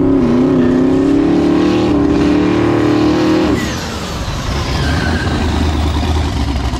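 Drag race car's engine at full throttle, its pitch climbing steadily for about three and a half seconds. The note then breaks off, leaving a lower rumble.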